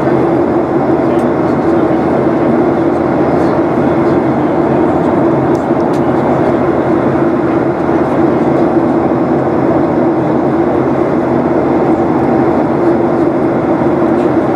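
Steady cabin drone of a Boeing 737-800 in flight: CFM56-7B jet engines and rushing airflow heard from inside the passenger cabin, loud and unchanging.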